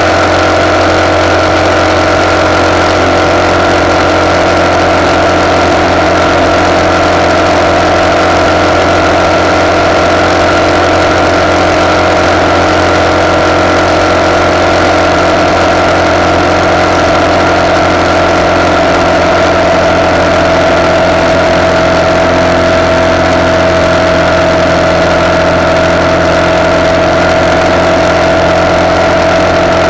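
RPS Hawk 250's single-cylinder four-stroke engine running steadily at cruising speed through a de-catted CRF230 exhaust, heard from a camera clamped to the handlebar, with wind rushing over it.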